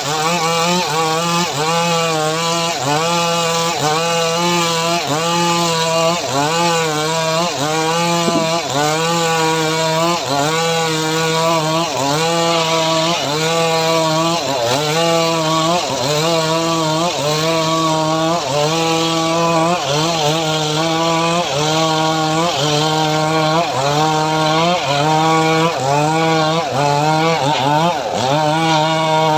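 Homemade engine-driven saw ripping mahogany: the engine runs loud and continuous, its pitch dipping and recovering in a steady rhythm a little slower than once a second as the blade bites into the wood under load.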